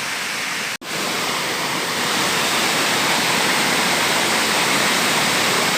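Waterfall rushing steadily, broken by a brief cut-out a little under a second in.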